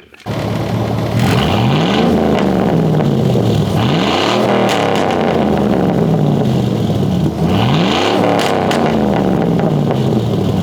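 Chevrolet Silverado's 5.3-litre V8 running loud through a side-exit exhaust pipe, revved up and let back down several times.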